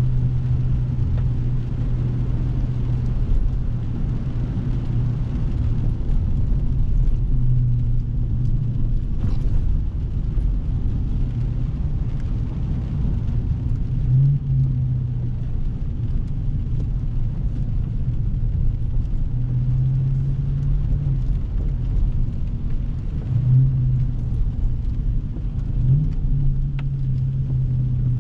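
Dodge Scat Pack's 392 HEMI V8 running at low, steady revs with a deep drone, its pitch lifting briefly a few times with light throttle.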